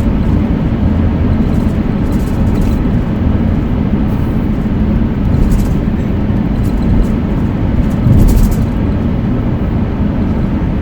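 Steady road noise inside a moving car: a continuous low rumble of tyres and engine, with a few brief hissing swells.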